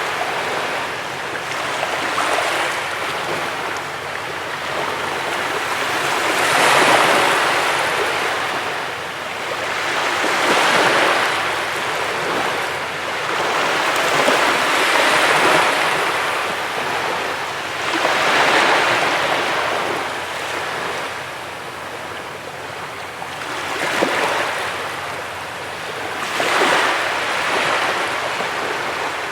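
Ocean surf breaking on a beach, each wave swelling to a rush and then washing back, about every three to four seconds.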